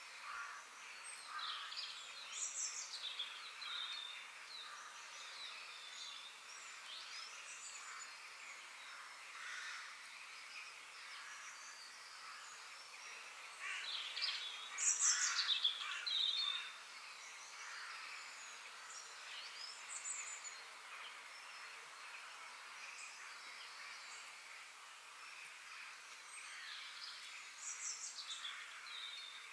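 Forest birds singing: scattered chirps and short whistled phrases, many sweeping down in pitch, with the loudest flurry of song about halfway through. A steady high hiss of background sound runs beneath them.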